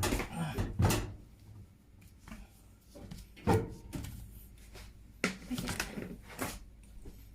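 Several separate knocks and clunks of parts and panel being handled on a washing machine, about five in all, spaced a second or more apart.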